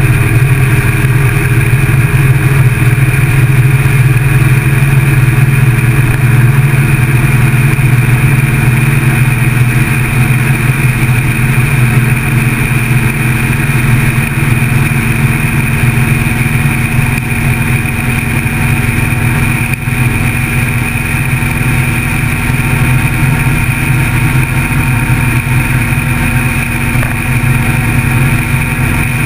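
Motorcycle engine running steadily at cruising speed, heard from the bike itself, with a steady low drone and little change in revs.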